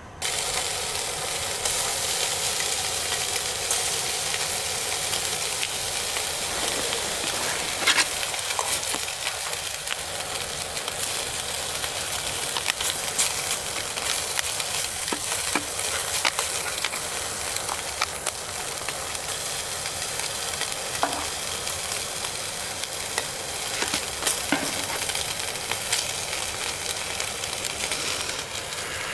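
Food sizzling as it fries in a pan: a steady hiss with scattered sharp pops and clicks.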